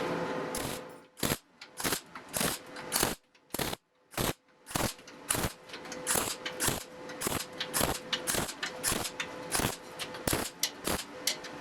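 Electric welder striking short tack welds on steel grille bars: a quick, irregular string of brief crackling bursts, about two a second, over a faint steady hum.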